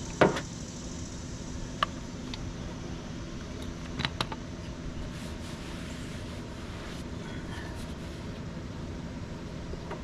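Steady mechanical whirring noise, turned down in level, broken by a few short sharp knocks: one just after the start, one just before two seconds, and two close together about four seconds in.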